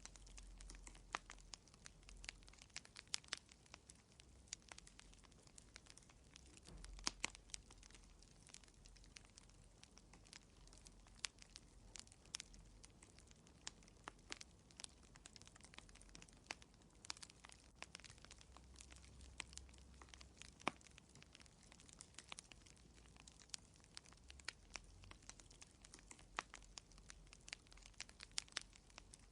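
Wood fire crackling in a fireplace: irregular sharp pops and snaps over a faint low rumble.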